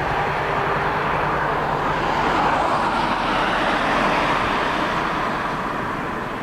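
Boeing 737-800's CFM56-7B jet engines: a loud, steady rushing noise that begins to fade about five seconds in.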